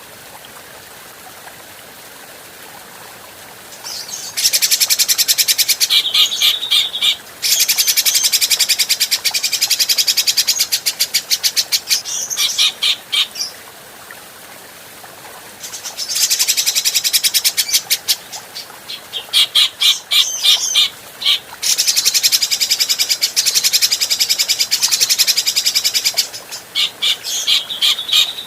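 Grey-cheeked bulbul (cucak jenggot) giving very fast, harsh, high chattering calls in two long bouts, with a pause of a few seconds between them, over a faint steady hiss.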